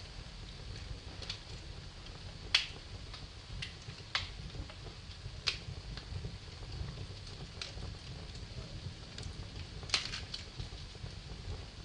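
Wood fire burning in a fireplace: irregular sharp crackles and pops over a low steady rumble, with the loudest pops about two and a half seconds in and near the end.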